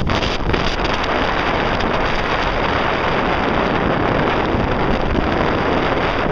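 Strong storm wind ahead of an approaching rainstorm, buffeting the microphone. A dense, steady hiss comes in suddenly at the start and holds throughout.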